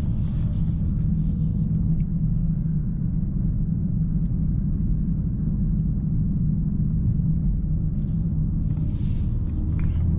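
2024 Mercedes-AMG S63's twin-turbo V8 running at a steady low rumble while the car drives, with road noise underneath.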